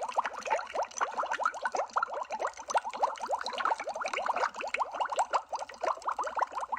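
Underwater bubble sound effect: a steady stream of quick bubbles, each a short note rising in pitch, many a second.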